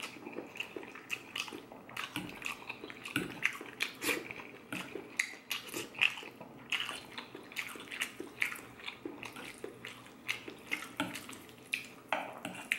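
Close-miked wet chewing of fresh pasta with shrimp in Alfredo sauce: a run of short, wet mouth clicks and smacks, a few a second.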